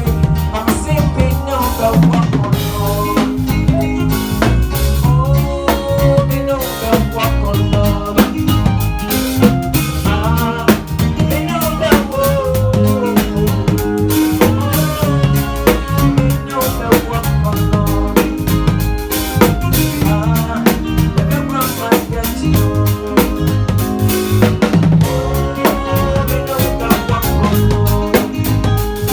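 A band playing live at a sound check: a drum kit with snare, bass drum and rimshots keeps a steady beat under a bass line and melodic instruments.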